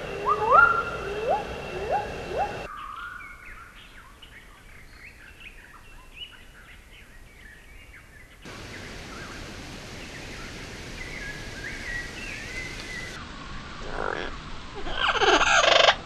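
Bird calls changing from one clip to the next: first a few short rising calls about every half second, then faint high chirping, and near the end loud, harsh screeching calls.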